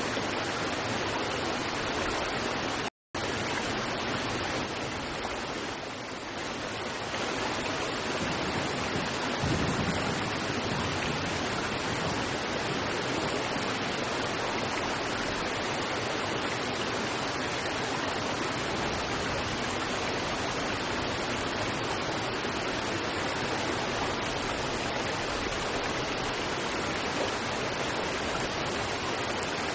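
River water rushing over rocks, a steady, even wash of noise. It cuts out completely for a split second about three seconds in.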